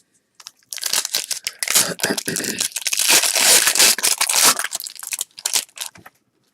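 A 1992-93 Fleer Ultra basketball card pack's wrapper being torn open and crinkled: a dense crackling rustle that starts just under a second in and lasts about five seconds, thinning to a few crackles near the end.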